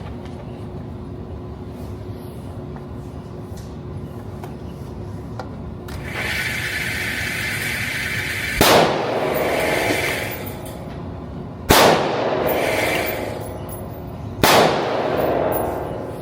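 Three single gunshots from a firearm on a shooting range, about three seconds apart, each with a long echoing tail. A steady rushing noise starts about six seconds in and carries under the shots.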